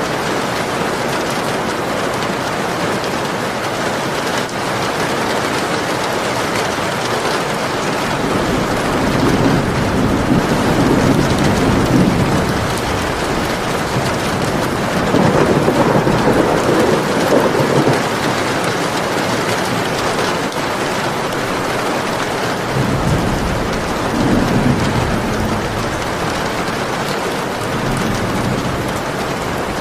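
Steady heavy rain hissing, with rolls of thunder rumbling low and fading away several times: a long one about a third of the way in, another around the middle, and a shorter one near the end.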